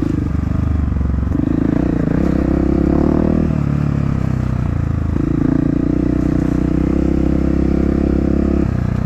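Off-road motorcycle engine running loud and continuous, its pitch stepping up and down several times as the rider works the throttle.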